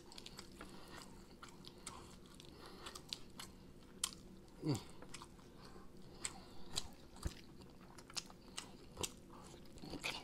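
Close-up chewing and biting of sauced whole chicken wings: scattered wet smacks and crisp clicks of meat being torn and chewed, faint overall. A short falling hum comes about halfway through.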